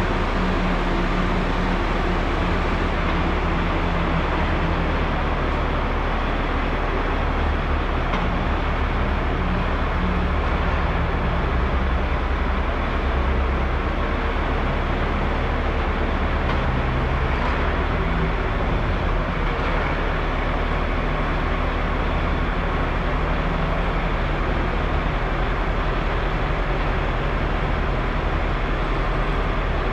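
Heavy machinery running steadily, with a low engine hum that shifts slightly in pitch.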